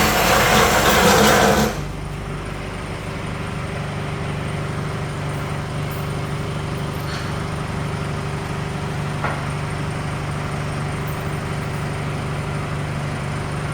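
A loud rushing hiss cuts off suddenly about two seconds in. A steady low motor hum runs on underneath it.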